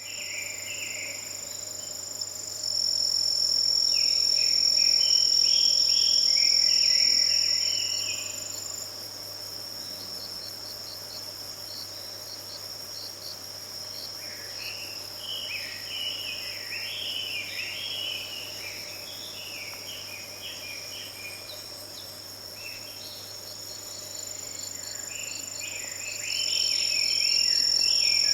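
Autumn insects, crickets among them, trilling in a steady high-pitched chorus that swells twice, while a Chinese hwamei sings loud, varied phrases in several bouts.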